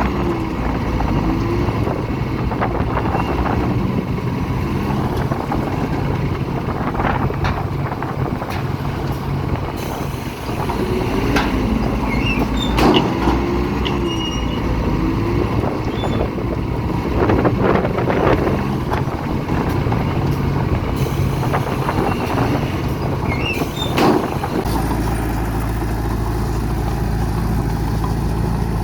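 Heavy diesel earthmoving machinery at work: engines running under load, with wavering metallic squeaks and several sharp clanks. About 25 seconds in the engine note settles into a steady low drone.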